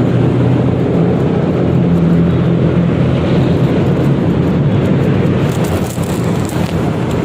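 Yamaha XMAX 300 single-cylinder scooter being ridden at a steady pace, its engine running evenly under wind and road noise.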